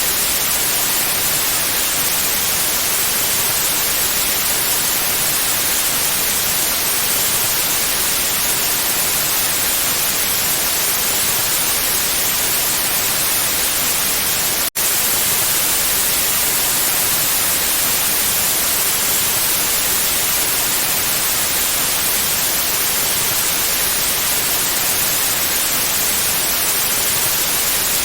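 Steady synthetic white noise: an even, full-range hiss at constant level, broken by a momentary dropout about halfway through.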